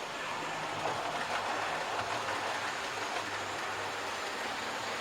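A 00 gauge model train running steadily along the layout track, its wheels and motor giving a continuous rolling rattle.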